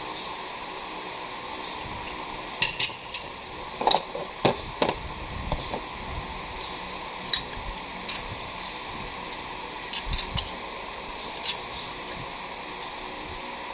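Metal hand tools and parts clinking and knocking at irregular intervals over a steady background hiss, as work goes on at the engine.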